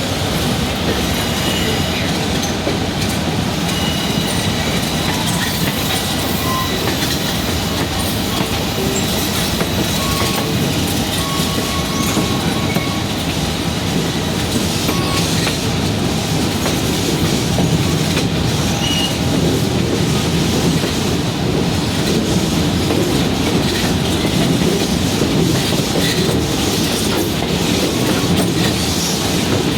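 Passenger train rolling along the track: a steady rumble of wheels on rail, with scattered brief, faint wheel squeals.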